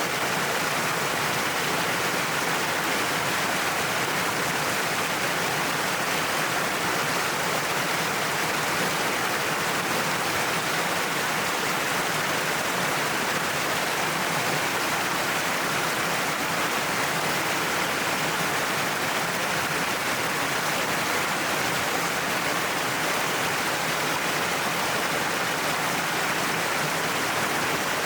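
Waterfall spilling down a cliff face: a steady, unbroken rush of falling water with no let-up.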